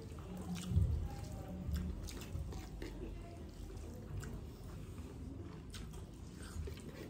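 Quiet wet eating sounds of a person eating spicy ramen noodles, with scattered small clicks and soft low thumps.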